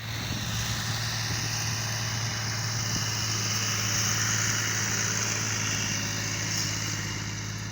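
Fiat tractor's diesel engine running steadily under load while levelling a field, with a steady low drone and a hiss over it that swells slightly midway.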